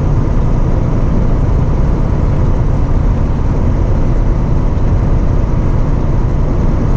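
Steady engine drone and road rumble heard inside a semi-truck cab while the tractor-trailer cruises along the highway.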